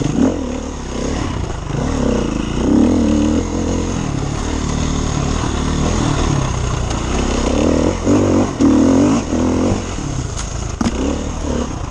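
KTM enduro motorcycle engine under hard riding, revving up and falling back again and again as the throttle is worked over rough dirt.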